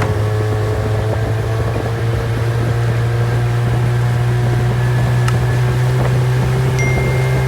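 Mercury 30 hp outboard motor running under way at steady throttle, its engine note climbing slightly.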